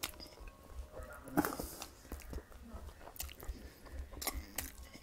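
A person chewing and eating minced chicken-and-vegetable mixture with mayonnaise from the fingers, with soft wet mouth clicks and smacks. One louder mouth noise comes about a second and a half in.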